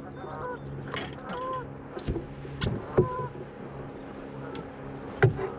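Geese honking a few times in the background, with several sharp knocks about two, three and five seconds in over a faint steady low hum.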